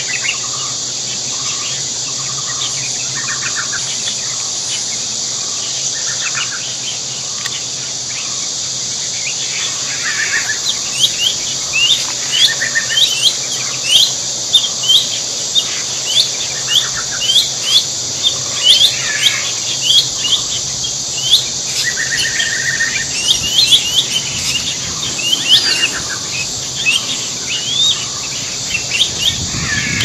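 Many short, quick bird chirps, several a second from about a third of the way in, over a steady high insect drone.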